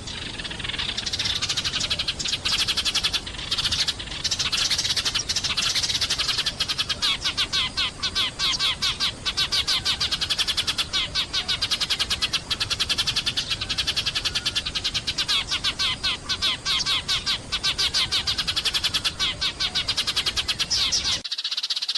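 A flock of sparrows chirping and chattering in a rapid, unbroken stream. The low background noise under the calls cuts out abruptly near the end while the chirping goes on.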